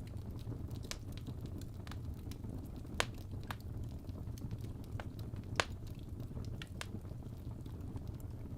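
Logs burning in a fireplace: a steady low rumble of flame with scattered sharp crackles and pops, the two loudest pops about three seconds and five and a half seconds in.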